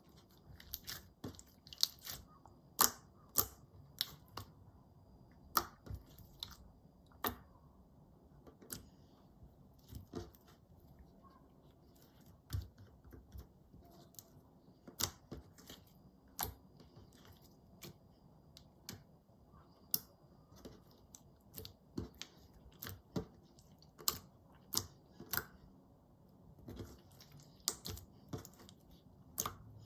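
Clear slime being worked by hand as colouring is mixed in, giving irregular sharp sticky clicks and pops, about one or two a second.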